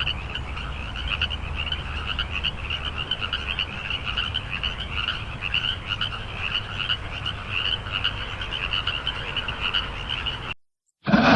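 Chorus of many frogs calling at once: dense, rapid, overlapping croaks that cut off abruptly near the end, followed by a short loud sound.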